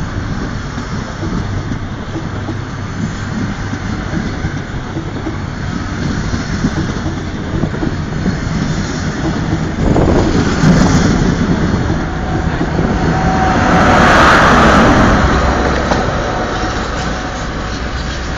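An InterCity 125 High Speed Train running through the station at speed: a steady rumble and clatter of the Mark 3 coaches' wheels on the rails, growing louder about ten seconds in and peaking in a loud rushing swell a few seconds later as the rear Class 43 power car goes by, then fading.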